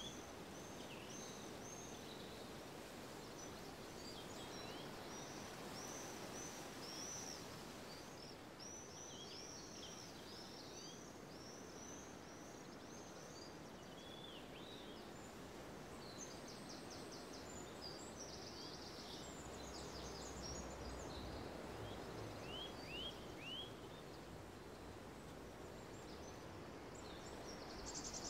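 Birds chirping in many short high calls over a faint steady background hiss, with a few quick rattling trills in the middle and near the end.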